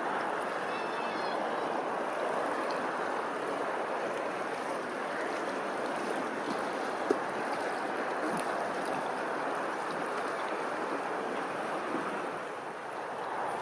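Steady rush of running water, with a single brief sharp click about halfway through.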